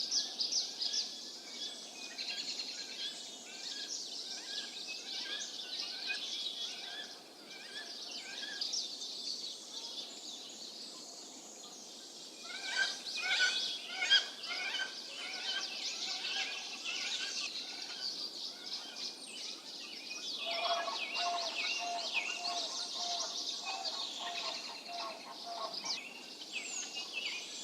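Several songbirds singing and calling at once, a dense mix of chirps and trills. From about twenty seconds in, a lower note repeats evenly for several seconds under the higher songs.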